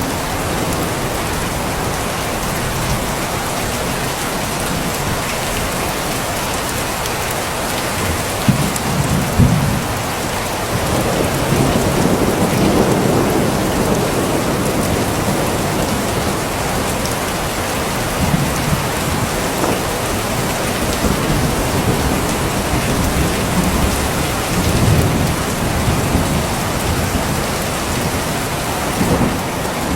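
Steady rain, an even hiss of falling drops, with deep low rumbles swelling up several times, strongest about a third of the way in.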